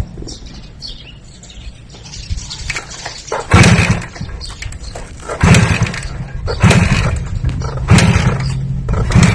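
A motor revved in short bursts, about once a second, starting about three and a half seconds in.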